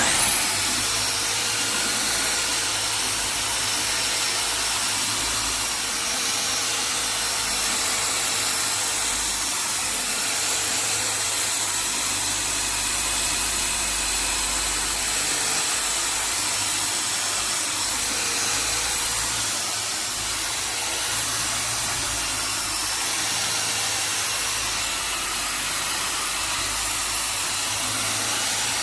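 A small electric motor running steadily with a high-pitched whine, like a power tool or blower.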